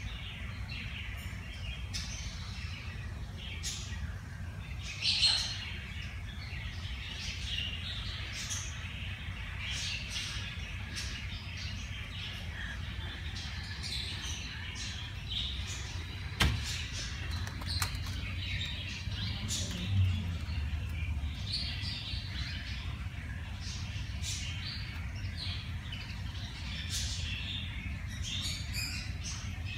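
Small birds chirping, many short high chirps scattered throughout over a steady low hum. There is one sharp click about halfway through and a brief low thump a few seconds later.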